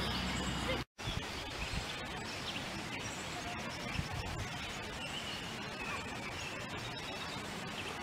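Birds chirping faintly over a steady outdoor background hiss. A low hum stops at a brief complete dropout about a second in, where the recording is cut.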